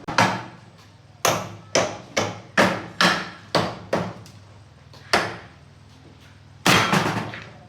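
Hammer blows, about ten sharp strikes at an uneven pace, pausing briefly in the middle, with a heavier double blow near the end.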